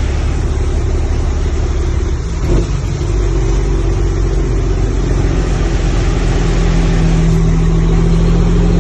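Road vehicle engine running with a steady low hum under a loud, even wash of noise. There is a brief knock about two and a half seconds in, and the sound grows slightly louder after that.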